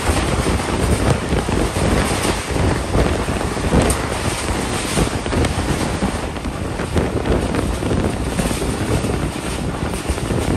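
Passenger train running at speed: a steady rumble of wheels on the rails, with wind buffeting the microphone.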